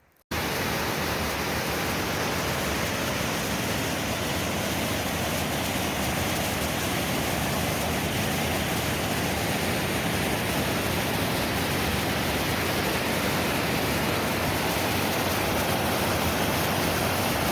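Steady rushing of a river, starting abruptly just after the start.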